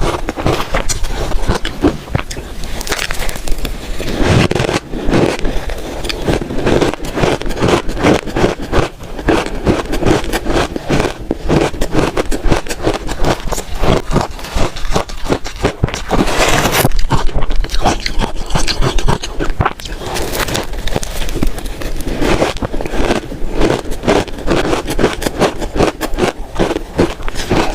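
Close-miked crunching of red shaved ice, bitten and chewed by the spoonful, a steady run of dense, crackly crunches with no pause.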